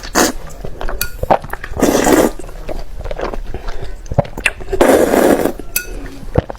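A person eating: noisy bursts of chewing and crunching about two seconds in and again about five seconds in, with sharp clicks and clinks of cutlery on a dish throughout.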